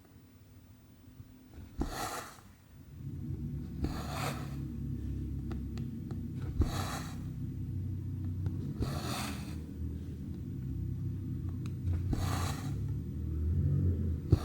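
Cotton floss pulled through 14-count cross-stitch fabric: a soft swish about every two to three seconds, five times, with a few faint ticks between. A steady low rumble comes in about three seconds in.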